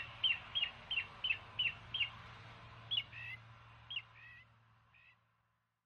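A bird calling: a quick falling chirp repeated about three times a second, then a few slower two-part calls before the sound fades out. A low steady hum runs underneath.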